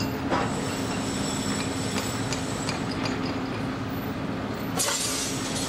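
Electric passenger train running along the line, a steady hum and rumble with a few faint clicks from the wheels. A short hiss rises about five seconds in.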